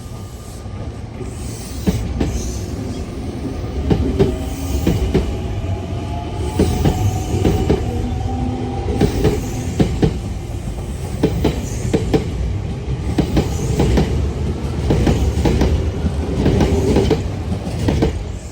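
Semboku Rapid Railway electric train running by, its wheels knocking repeatedly over rail joints, with a motor whine underneath.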